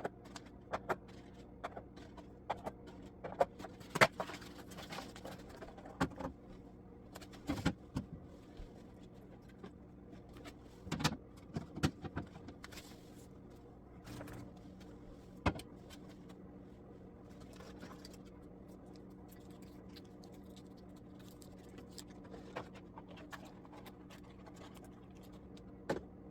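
Food containers and dishes knocking and clattering as spoiled food is cleared out of a fridge: scattered knocks and clicks, busiest in the first half, over a steady low hum.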